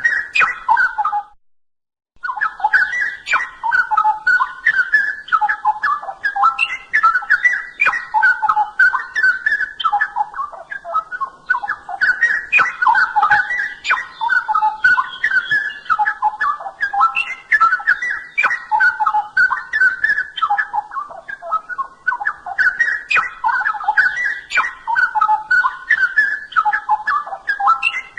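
Straw-headed bulbul (cucak rowo) singing loud, rich, bubbling song phrases one after another, with one short pause about a second and a half in.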